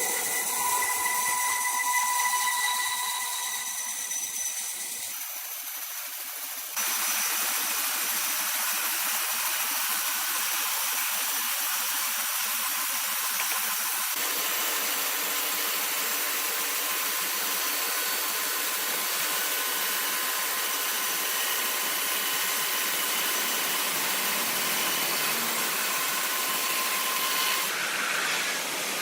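Sawmill machinery running: a high whine over a hiss for the first few seconds, then a steady loud hiss. The sound changes abruptly twice within the first seven seconds.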